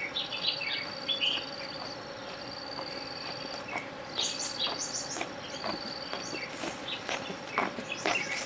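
Insects trilling in steady stretches that start and stop, with short bird chirps and a few light clicks among them.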